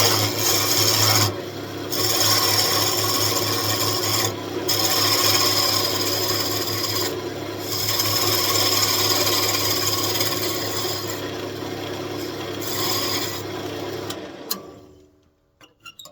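Wood lathe spinning a walnut blank while a turning tool cuts into the wood in several scraping passes with short breaks, over a steady motor hum. The lathe is switched off about fourteen seconds in and winds down to quiet.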